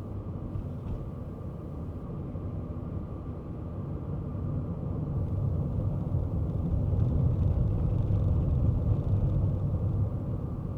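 Kei car driving: a steady low rumble of engine and road noise, growing louder through the middle and easing off slightly near the end.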